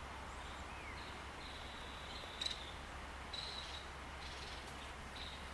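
Faint outdoor ambience with a steady background hiss and distant small birds giving thin, high chirps and calls, most of them in the second half, with a brief tick about halfway through.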